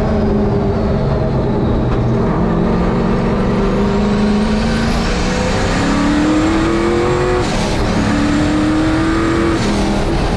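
Turbocharged engine of a 1951 Chevy race truck running hard under throttle: the pitch climbs for a couple of seconds, drops at a gear change about seven and a half seconds in, then climbs again, with a thin high whine rising alongside.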